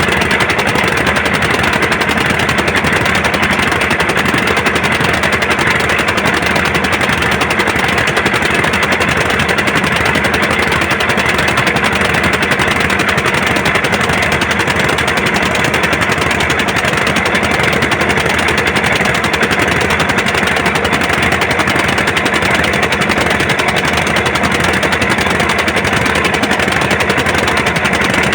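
Diesel engine running steadily, a rapid even knocking beat with no change in speed.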